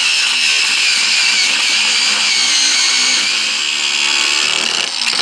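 A small power-tool cutting disc running steadily as it grinds into a screw on a cast-iron stove: a loud, even high-pitched whine with metal grinding, which cuts off at the end.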